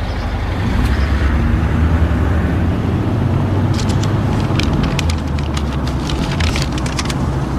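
A steady low engine rumble, with a run of short sharp clicks in the second half.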